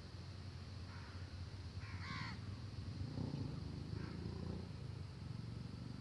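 A few short, harsh calls from a bird out of sight, the loudest about two seconds in, over a steady low hum. A low rumble swells up around three to four seconds in.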